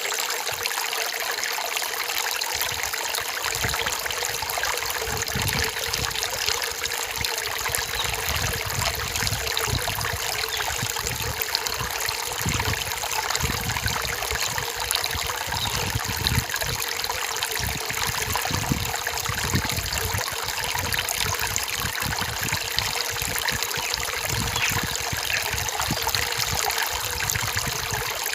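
A forest stream trickling and splashing over stones, steady throughout with irregular low gurgles.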